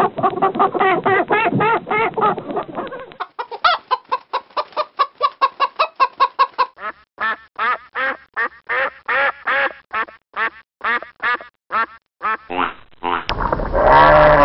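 A duck quacking in a rapid run of short calls, about three a second, from about three seconds in until near the end. Before it, a dense stretch of chicken clucking, and near the end a cut to a louder, dense stretch of fowl calls.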